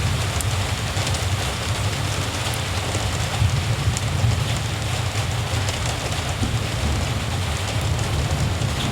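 Steady rain, with scattered sharp drop ticks over an even hiss and a steady low rumble underneath.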